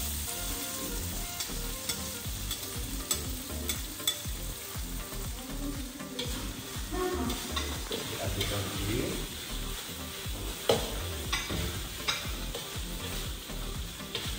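Squid sizzling in hot oil and chili paste in a metal wok, with a metal spatula scraping and clicking against the wok as it is stirred.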